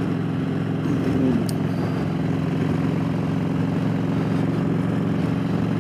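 Motorcycle engine running at a steady cruise with wind rushing past, heard from the rider's seat.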